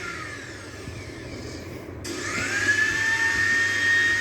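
Electric mixer grinder's motor winding down with a falling whine after being switched off, then switched on again about two seconds in, its whine rising quickly to a steady high pitch as it runs at speed.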